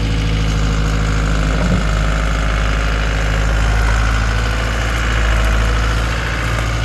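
CAT 252B skid steer's diesel engine running steadily at an even pitch, with no big changes in revs.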